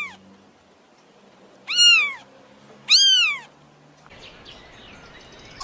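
Cat meowing. The end of one meow comes at the start, then two high-pitched meows follow about a second apart, each rising and then falling in pitch.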